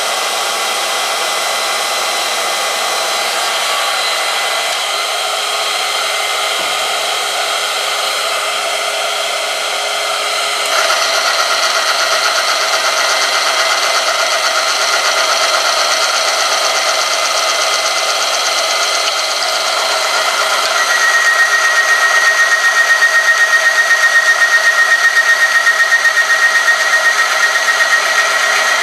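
Oil-film strength test machine running, its motor-driven test piece grinding against a metal sample in hot oil. The steady whirring grows louder about eleven seconds in, and about twenty-one seconds in a high, fast-pulsing squeal sets in.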